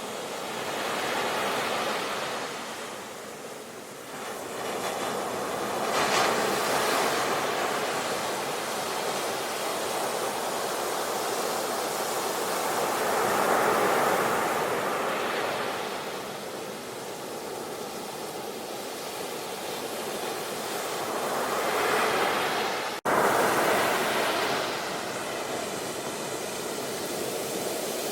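Ocean surf breaking on a shore, the wash of the waves swelling and easing every few seconds. The sound cuts out for an instant near the end.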